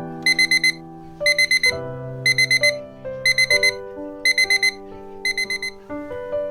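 Digital alarm beeping in groups of four quick high beeps, about one group a second, six times, over soft piano music.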